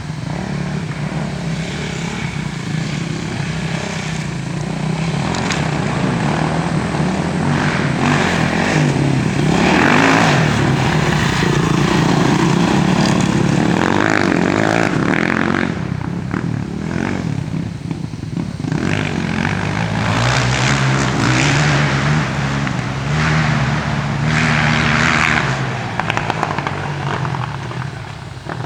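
Dirt bike engine running hard, its pitch rising and falling as it revs up and down, with louder surges several times.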